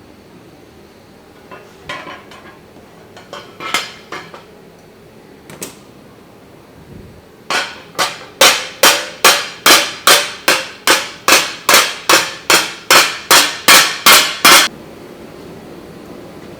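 Hammer on steel: a few light, scattered taps, then a steady run of about eighteen hard blows, roughly two and a half a second, that stops suddenly. These are the blows shaping a steel frying pan on an anvil.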